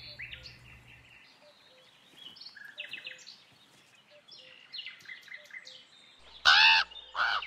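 Forest birds calling: short, faint, high chirps scattered throughout, then two loud calls close together near the end.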